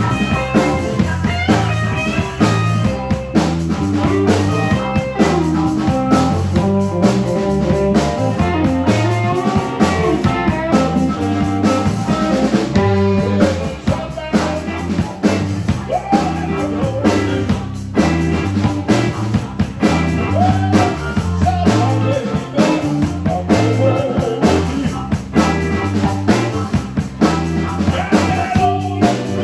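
Live rock band playing a blues-rock number: electric guitar and bass over a drum kit keeping a steady beat, with a melody line of bending notes on top.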